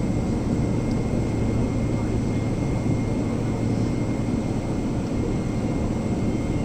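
Steady cabin noise aboard a Boeing 777-300ER: the drone of its GE90 jet engines and rushing airflow, heavy and low, with a steady hum and a faint high thin tone running through it.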